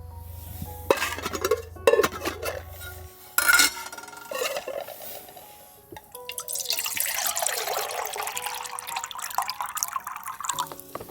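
Cookware clinking a few times, then liquid pouring steadily for about four seconds, with soft background music underneath.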